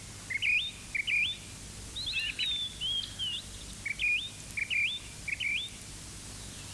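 Small birds chirping: a series of short, quickly rising chirps, one every half second or so, with a busier tangle of overlapping chirps about two seconds in. The chirps stop shortly before the end.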